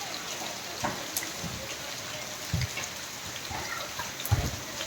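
Steady rain falling, with a few short dull thumps, the strongest about two and a half and four and a quarter seconds in.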